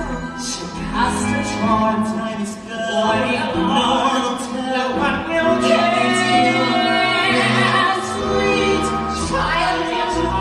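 A musical-theatre song: singing voices with held, wavering notes over orchestral accompaniment, with ensemble voices joining in.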